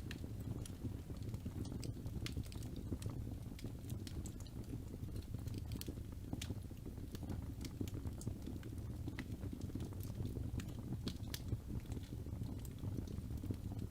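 Wood fire burning in a fireplace: a steady low rumble of flames with frequent irregular small crackles and pops.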